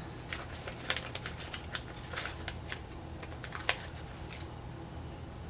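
Irregular small clicks and crinkles of paper sticker sheets being handled, as stickers are peeled off and pressed onto a planner page; the clicks thin out after about four seconds.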